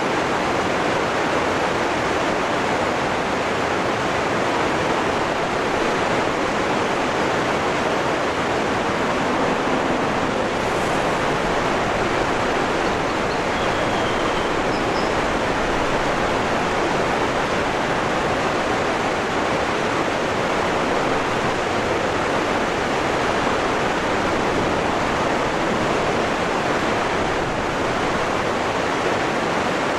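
Waterfall rushing: a steady, even roar of falling water. A couple of faint, brief high chirps sound about halfway through.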